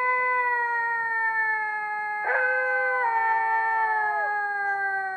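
Fox howling: a long drawn-out howl that slowly sinks in pitch, then a second one begins about two seconds in and trails away.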